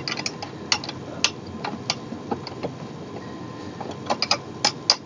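Scattered light clicks and taps of metal hardware being worked by hand while assembling a gaming chair, irregular and a little thicker near the end.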